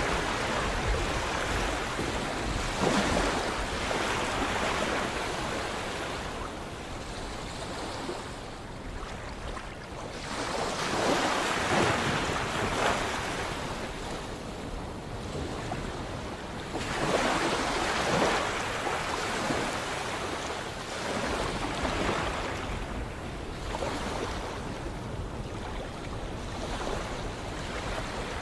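Sea waves breaking and washing in, the noise swelling and falling back every few seconds.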